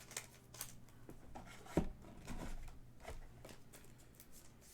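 Trading cards being handled and sorted on a table: faint scattered clicks and light rustles, with one sharper tap a little under two seconds in.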